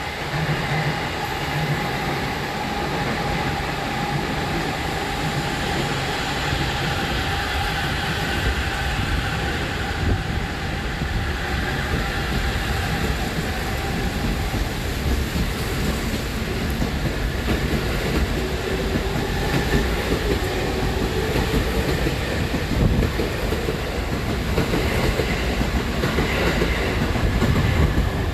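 Electric train running at the station platform: a steady rumble with a faint tone that rises slightly in pitch over the second half.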